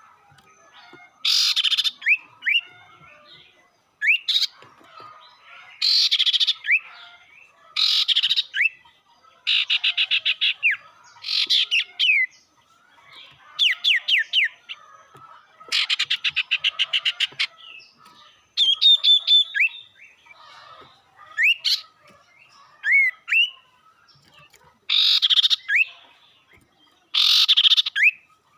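Sirtu bird calling in repeated bursts: rapid strings of sharp notes and quick downward-slurred whistles, some harsh and scolding, about a dozen bursts with short pauses between them. This is an aggressive lure call, the kind played to provoke a rival bird.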